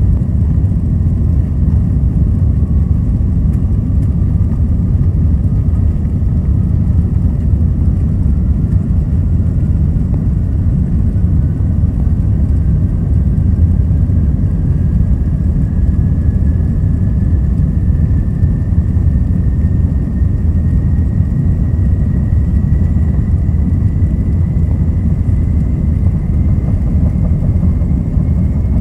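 Jet airliner engines at take-off power heard from inside the cabin: a loud, steady low rumble with a thin whine that slowly rises in pitch.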